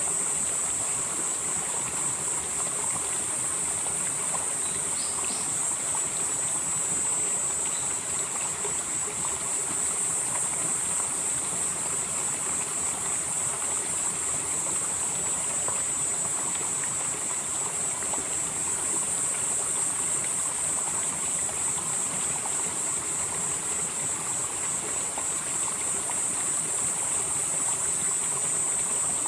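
Valley stream flowing steadily, with a continuous high insect drone over it that swells and fades every several seconds.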